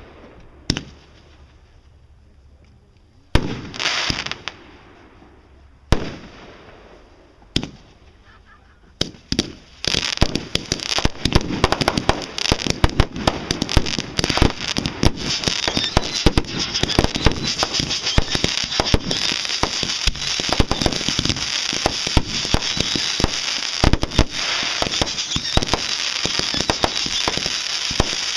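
Fireworks going off: a few single loud bangs a couple of seconds apart, each trailing off, then about ten seconds in a dense, unbroken barrage of rapid crackling and popping reports.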